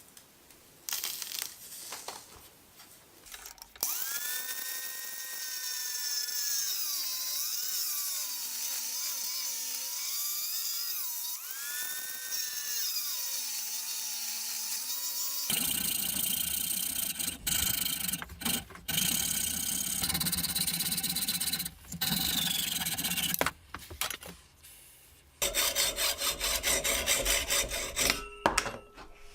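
Power tools at work on a hammer. First a motor whose pitch dips and recovers several times as it is loaded, then rough abrasive noise broken by abrupt cuts.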